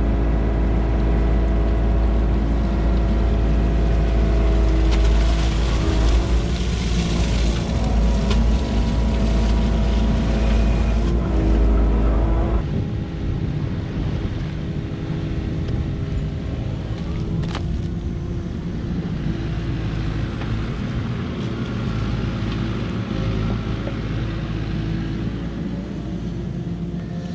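Tractor engine running steadily while digging, with a heavy low rumble that eases off a little under halfway through and a stretch of rushing hiss in the first half.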